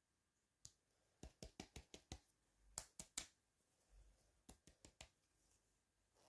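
Light clicks and taps of small plastic toy pieces and packaging being handled: a quick run of about half a dozen clicks, three louder knocks about three seconds in, then a few more.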